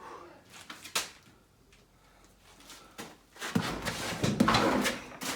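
Handling noise from parts being worked on: a sharp knock about a second in, then scraping and rattling for a couple of seconds near the end.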